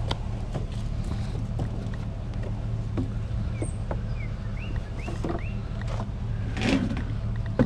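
A steady low mechanical hum with scattered light clicks and knocks. A few short chirps come in the middle, and a louder clatter near the end.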